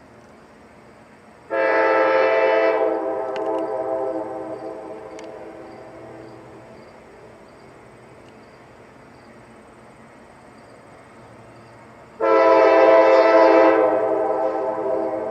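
GE AC44CW diesel-electric locomotive's air horn sounding twice, about ten seconds apart. Each blast comes in sharply and is loud for about a second, then trails away over several seconds.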